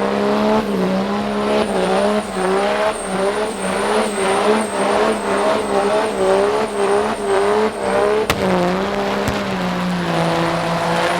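Diesel truck engine revved high and held, its pitch dipping and recovering about twice a second, with a faint high whistle riding on it. About eight seconds in it settles to a steadier note.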